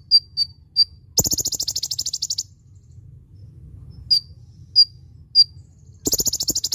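Kolibri ninja sunbird calling: a string of sharp, high single chips, broken twice by a rapid buzzy trill of about a second or more, the second starting near the end.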